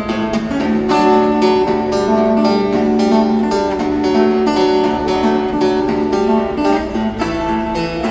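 Acoustic guitar playing an instrumental passage with no singing, strummed and picked in a steady rhythm.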